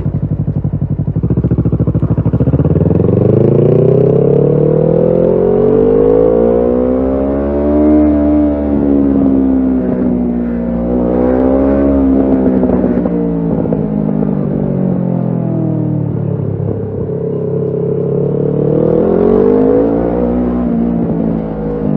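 Kawasaki Ninja 650's parallel-twin engine through a Shark SRC-4 full exhaust system. It runs low and steady for about a second, then rises in pitch as the bike accelerates. The revs swell and ease several times, climbing once more near the end before dropping back.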